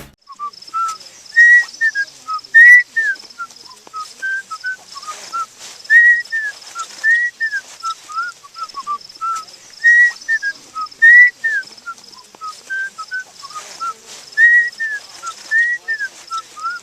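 A person whistling a tune: short clear notes, many rising and falling, in a phrase that repeats about every four seconds.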